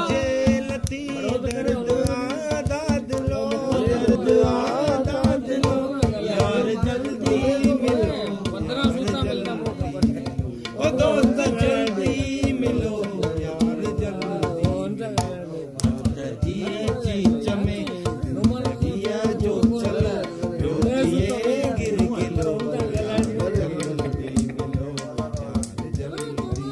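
Sindhi folk music: a hand drum plays a fast, dense rhythm under a wavering melody line over a steady drone.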